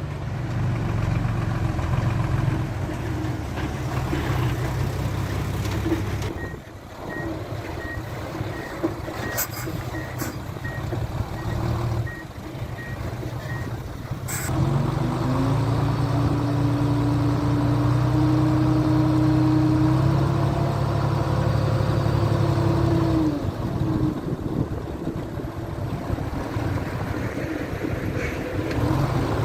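Diesel engines of heavy earthmoving machinery running, with a reversing alarm beeping about twice a second for several seconds midway. Then an engine revs up and holds a higher note for several seconds before dropping back.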